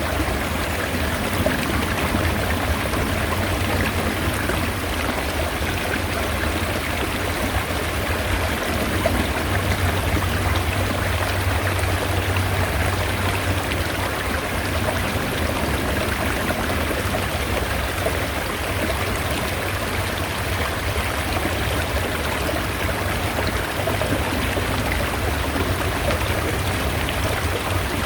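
Mountain stream water rushing steadily, an even, unbroken flow.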